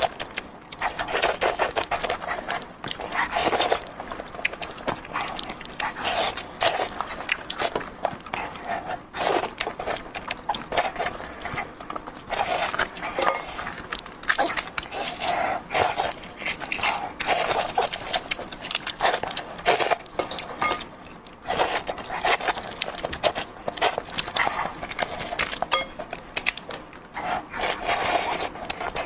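Close-miked wet chewing, lip-smacking and mouth sounds of someone eating soft, sauce-covered braised lamb head meat, with the meat pulled apart by hand.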